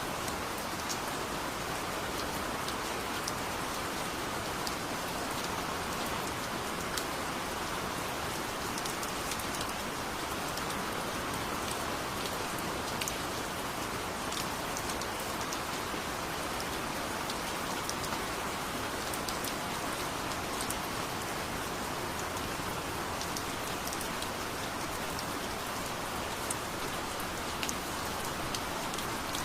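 Steady heavy rain: an even hiss of rainfall with many small drop ticks scattered through it, and no thunder.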